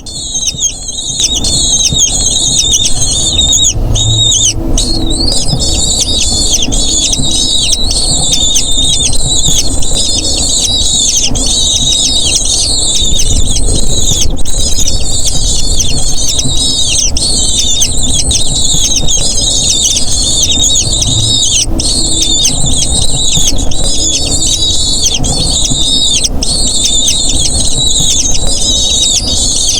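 Eagle chicks calling nonstop, a dense chatter of many overlapping high-pitched squeals and cheeps: begging for food while the parent feeds them.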